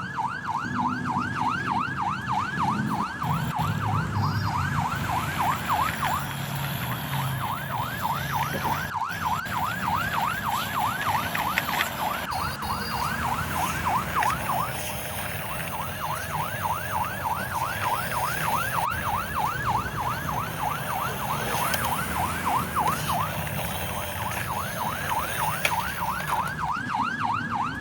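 Toy concrete mixer truck's electronic siren, a fast, steady warble of about four sweeps a second, with a low rumble underneath.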